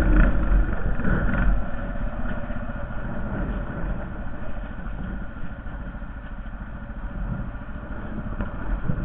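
Honda Foreman 450 ES ATV's single-cylinder engine running, louder for the first two seconds or so and then settling to a lower, steady level.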